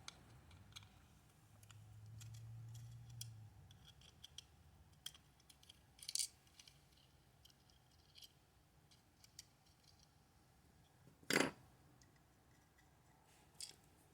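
Faint scattered clicks and scrapes of a small screwdriver with a triangular security bit working the tiny screws on a plastic toy's circuit board, with one sharper click about eleven seconds in.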